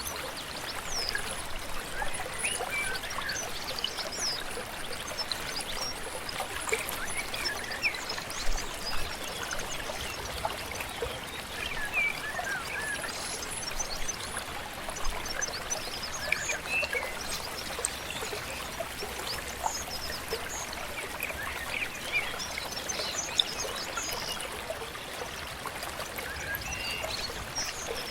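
A stream flowing steadily, with many small birds chirping and singing over it in short, scattered calls.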